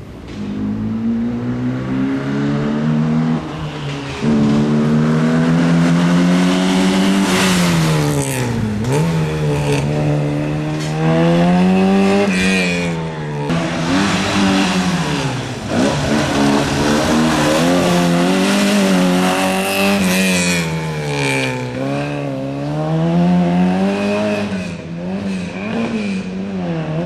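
A small car's engine revving hard and easing off over and over as it is driven through a slalom course. Its pitch climbs and falls every second or two, with a few sharp drops where the driver lifts off or changes gear.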